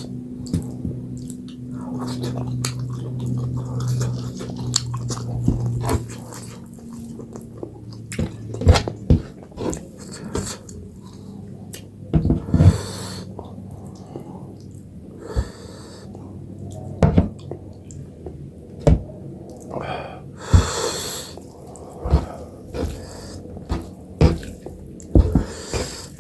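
Close-miked eating of finger-millet dhido and chicken curry: wet chewing, lip smacks and squishy mouth clicks, with a few louder breathy bursts at intervals. A low hum is heard through the first six seconds.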